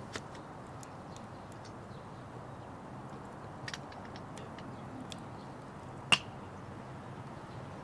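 Wood fire crackling with occasional sharp pops over a steady low hiss, the loudest pop about six seconds in.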